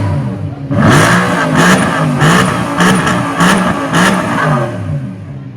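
Maserati V8 engine revved in a quick series of throttle blips, its pitch jumping up and falling back about twice a second, then easing off near the end.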